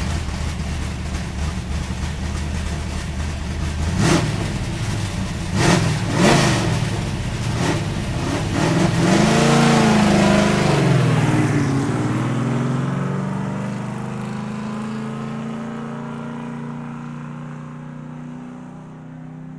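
Car engine running, with sharp revs about four and six seconds in, then a rise and fall in engine pitch at its loudest near the middle, settling into a steady tone that slowly fades away.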